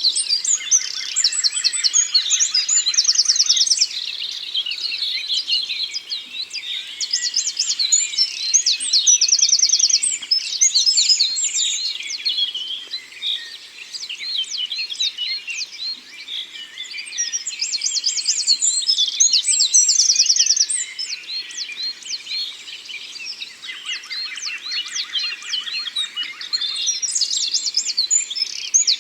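Forest birdsong chorus: several birds singing at once with chirps, whistles and rapid trills. It swells and eases in waves every few seconds, and a fast, lower trill comes in near the start and again near the end.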